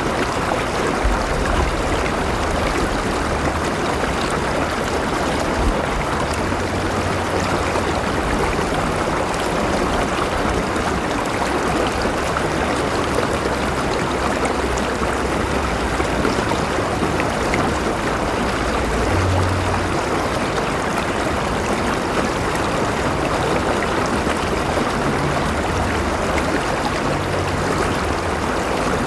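River water flowing steadily over rocks, a constant rushing and gurgling with a low rumble underneath.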